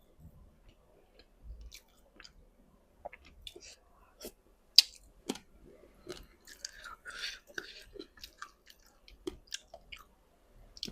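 A person chewing boiled frog full of eggs close to the microphone: scattered soft wet smacks and mouth clicks with occasional sharper crunches.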